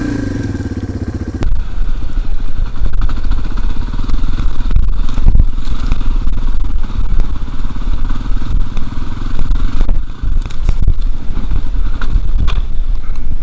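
Dirt bike engine running steadily at idle. About a second and a half in, the sound changes abruptly to a louder, heavy low rumble of the bike riding a rough trail, with scattered clattering knocks.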